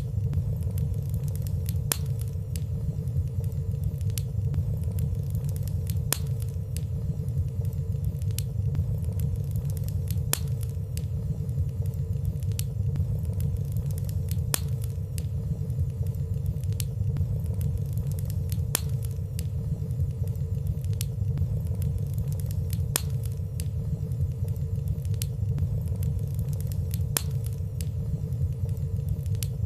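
Soft fireplace burning sound: a steady low rumble of flames with light clicks about every two seconds and a faint steady hum, with no loud pops.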